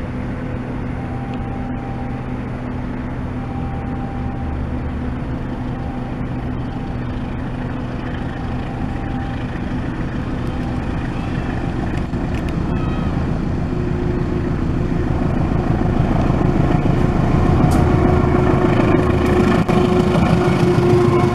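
GE diesel-electric locomotive's engine running and growing steadily louder as the train approaches, getting rougher and louder over the last several seconds. A short faint tone repeats about every two seconds in the first half.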